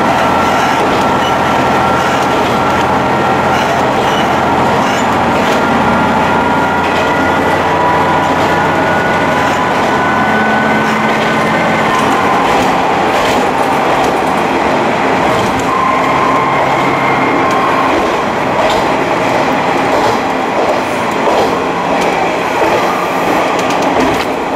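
Kanto Railway Joso Line diesel railcar running along the track, heard from inside its rear cab: steady running noise with a faint whine, and wheels clicking over rail joints now and then in the second half.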